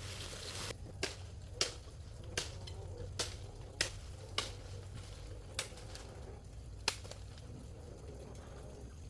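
A hiss that stops just under a second in, followed by a series of sharp single knocks, about eight of them, spaced irregularly roughly every second.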